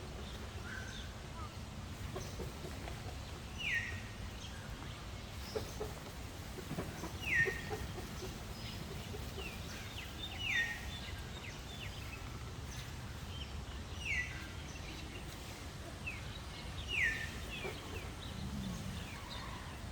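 A bird repeating a short call that slides down in pitch, five times, about every three to four seconds, with faint chirps from other birds and a steady low background rumble.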